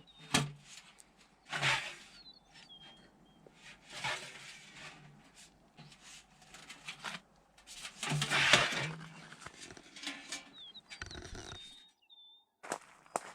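Irregular bursts of scraping and rustling with a few sharp knocks, as of hand work with materials, and a few short bird chirps in the background.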